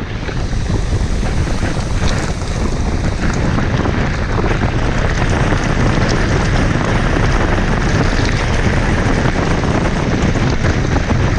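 Wind rushing over the microphone of a riding mountain biker's camera, a loud steady roar, with scattered clicks and rattles from the bike rolling over a muddy trail.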